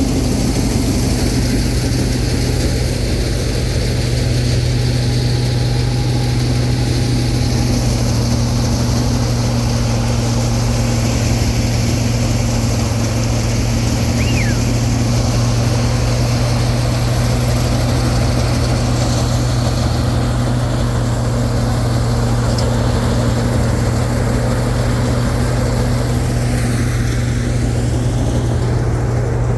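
Combine harvester's engine running steadily, a constant loud drone with a low hum.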